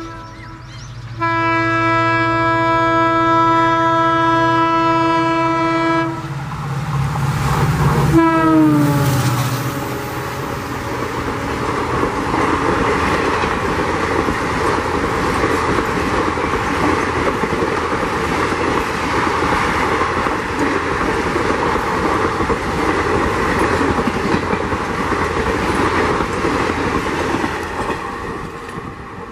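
EMD WDP4D diesel locomotive's air horn sounding, then a second long blast of about five seconds. As the locomotive passes at speed its horn and engine drop in pitch. Then about twenty seconds of passenger coaches rushing past with wheels clattering over the rail joints.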